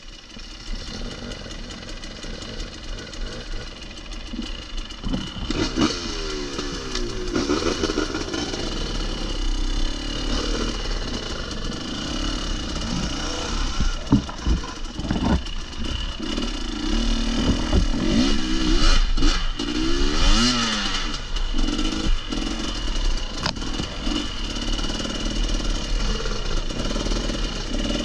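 Off-road trail motorcycle engine being ridden, its revs rising and falling over and over, with a few sharp knocks and clatter along the way.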